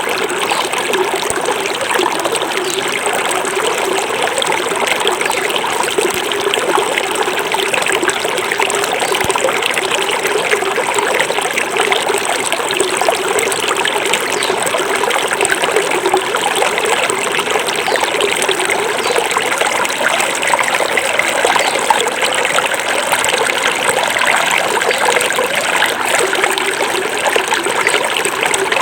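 Small forest river flowing steadily, its water babbling and trickling over the stream bed, with no breaks or single splashes standing out.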